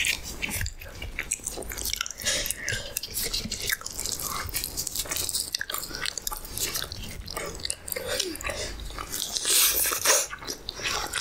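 Mouth eating sounds: biting and chewing of deep-fried puri bread with chickpea gravy, a run of short smacks and clicks. A louder noisy burst comes near the end.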